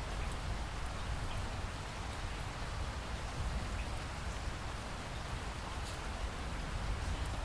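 Steady heavy rain with a constant low rumble underneath and a few faint drop ticks.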